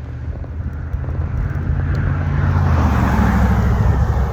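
A car passing close by: its road and engine noise swells to a peak about three seconds in, then starts to fade.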